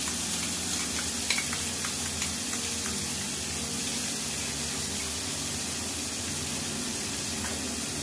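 Onion paste sizzling steadily in hot oil in a kadai, with a few light clicks in the first couple of seconds.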